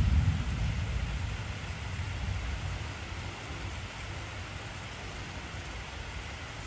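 Steady heavy rain hissing, with a low rumble of thunder that fades away over the first few seconds.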